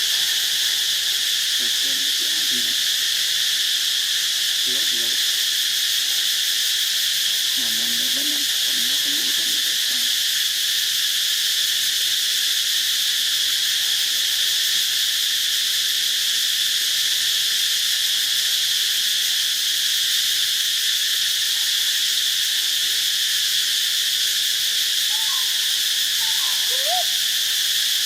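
A steady, unbroken chorus of insects shrilling at a high pitch. Underneath it come a few faint, short, wavering low calls now and then.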